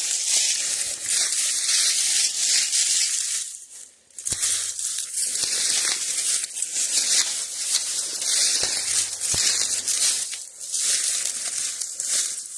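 Dry leaves, twigs and briars crackling and rustling underfoot and against the body as someone pushes on foot through a briar thicket, with a few sharp snaps. The crackling stops briefly about four seconds in.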